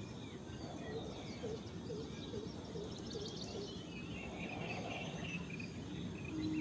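Field ambience of wild birds chirping and calling over a steady low background rumble, with a quick run of about six short, low repeated call notes starting about a second and a half in.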